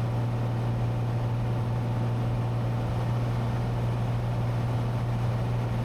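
Cessna 182T's six-cylinder Lycoming IO-540 engine and propeller droning steadily in flight, heard inside the cabin as an even low hum.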